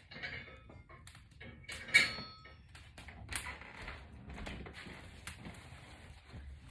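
Box braids being unravelled by hand: irregular rustling and crackling of the braided hair, with scattered small clicks and one sharp click about two seconds in.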